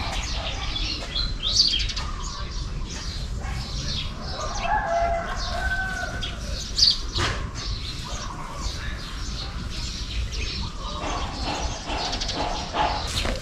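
Irregular rustling and clicking handling noises, with birds chirping now and then and a longer bird call about five seconds in.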